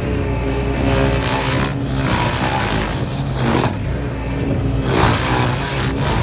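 A petrol engine running steadily, with a loud noisy surge every second or two.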